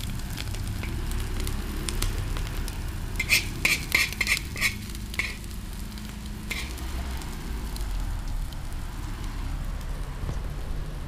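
Onion and egg sizzling as they fry in a large wok, stirred by a metal spoon scraping the pan. About three seconds in, a quick run of sharp clinks as the spoon taps the wok.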